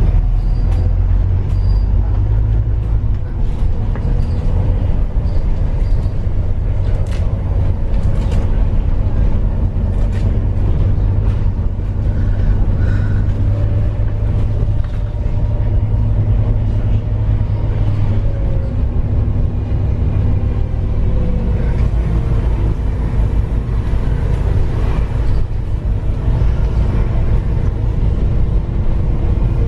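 Steady low rumble of a moving road vehicle, with engine tones that shift in pitch now and then and light scattered rattles and clicks.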